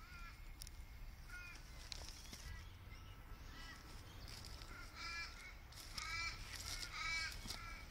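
A bird calling repeatedly in short calls, about one a second, louder in the last three seconds.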